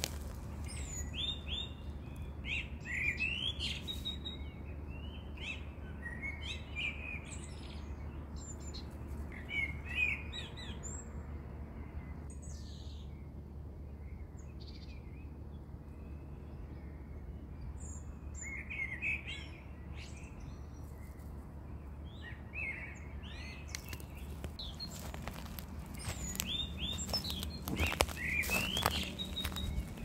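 Small birds chirping and calling in short scattered bursts over a steady low outdoor hum, with a few rustles or knocks near the end.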